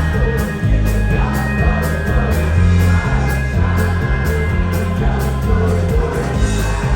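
Live rock band playing loud, with singing over heavy bass and a steady drum beat of about two hits a second.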